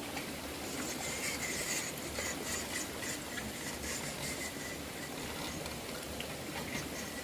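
Steady rushing noise of running water, with faint high chirps that come and go.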